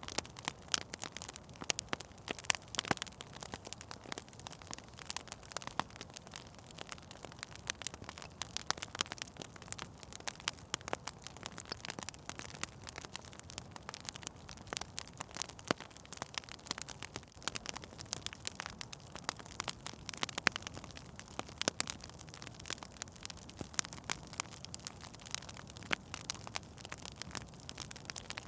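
Fire in a fireplace crackling, with irregular sharp pops and snaps over a soft steady hiss.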